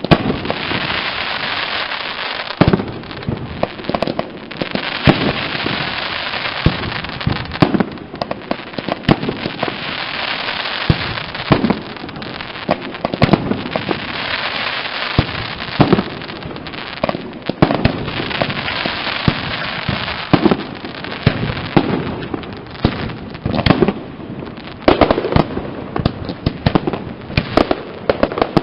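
Castillo fireworks display: many sharp bangs of bursting shells over a dense, continuous crackle.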